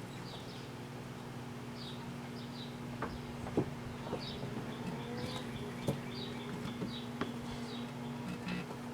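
Microwave oven running with a steady hum while a fidget spinner burns inside, giving short high chirps and a few sharp pops.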